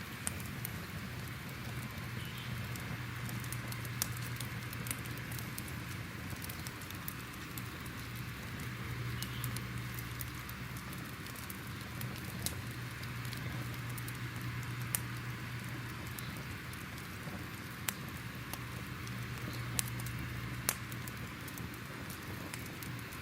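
Crackling fire: a steady hiss and low rumble with irregular sharp pops every second or two.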